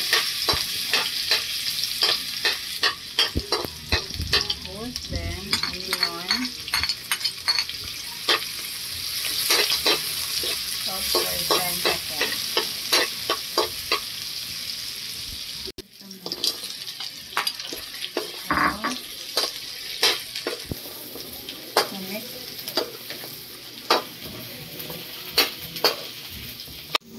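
Chopped garlic and onion, later pork pieces, frying and sizzling in oil in a wok. A metal ladle scrapes and clicks against the pan as it stirs.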